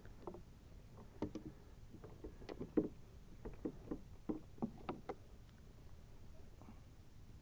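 A string of about a dozen short, irregular knocks and clunks over four seconds, the sound of gear or a paddle bumping against a kayak, then only faint background.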